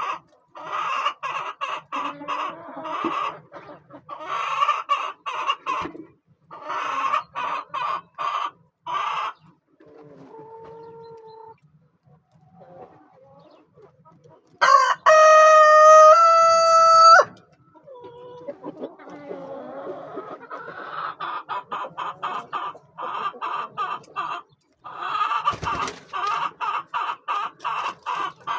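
Chickens clucking in runs of short repeated calls, with a rooster crowing loudly once about fifteen seconds in.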